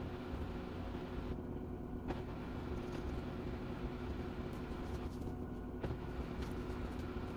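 Washing machine running: a steady low hum and rumble, with a couple of faint clicks.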